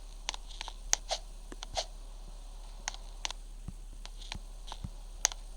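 Footsteps climbing stairs: scattered light clicks and taps at an uneven pace, over a steady low electrical hum.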